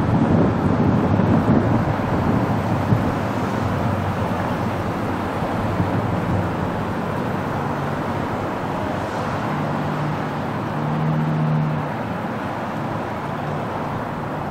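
MBTA diesel commuter train pulling away along the track, its low rumble slowly fading, with a low steady engine drone that swells briefly about two-thirds of the way in.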